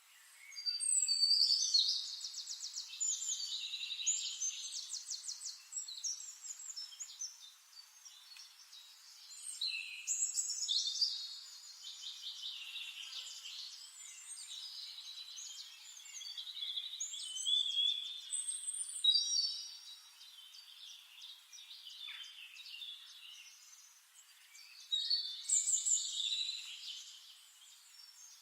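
A songbird singing long, varied warbling phrases of rapid trills and chirps, in four bursts with short pauses between them.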